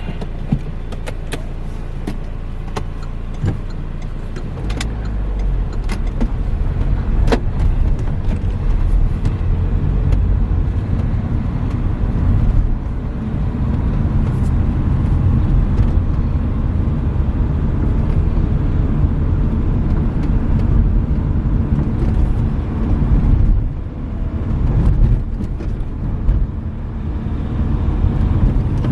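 Renault Mégane III on the move: a steady low engine and tyre rumble that grows heavier about five seconds in, with scattered sharp clicks and knocks in the first several seconds.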